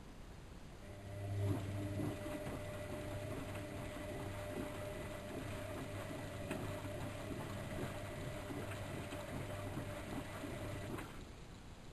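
Bauknecht WAK7760 washing machine's motor running with a steady hum and a higher whine. It starts about a second in and cuts off about ten seconds later.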